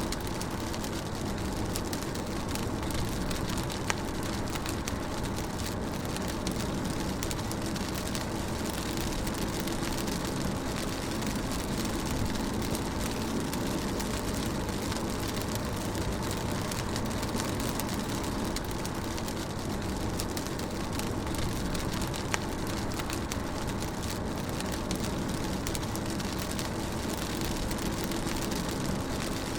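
Rain on a moving car heard from inside the cabin: a steady hiss of rain over a low road and engine rumble. A couple of sharp ticks stand out, about four seconds in and again after twenty seconds.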